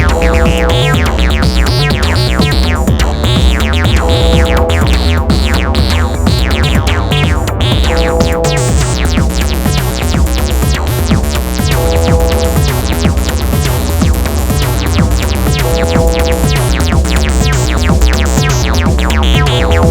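Make Noise eurorack modular synthesizer playing an acid-style sequence: a fast stream of short sequenced notes over a steady deep bass. A short held figure comes back about every four seconds, and filter sweeps make the sound brighten and darken.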